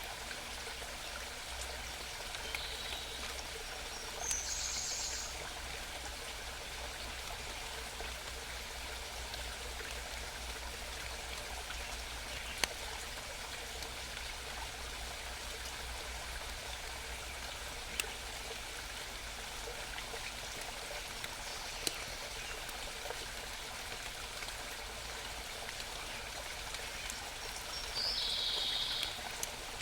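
A small forest stream babbling and trickling steadily. A songbird sings short, high trilled phrases a few times, most clearly about four seconds in and loudest near the end, with a couple of single sharp ticks in between.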